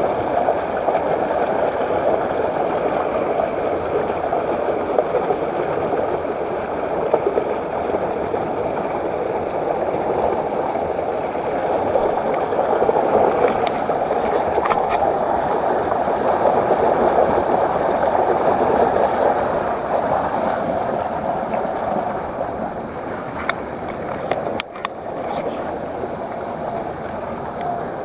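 Steady rushing of waterfall water running over rocks, with a few faint clicks mixed in, and a brief break about three-quarters of the way through.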